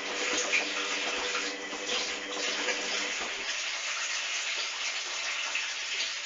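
Hoover washing machine in its wash phase: water rushing and splashing in the sudsy drum, with a steady low hum that stops about three and a half seconds in.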